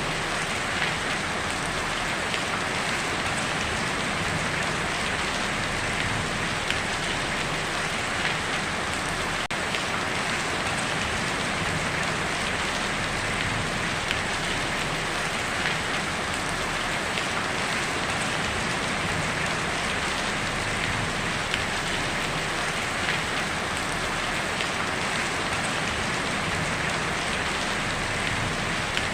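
Heavy rain falling steadily on a tin roof: an even, constant patter with scattered sharper drop hits.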